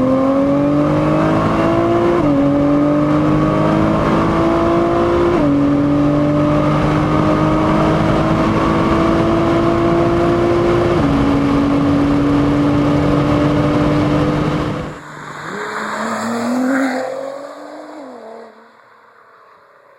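Nissan GT-R R35's twin-turbo V6 accelerating hard through the gears, its pitch climbing and then dropping at upshifts about two, five and eleven seconds in. About three-quarters of the way through, the sound gives way to a quieter, muffled recording with a short rev that rises and falls before dying away.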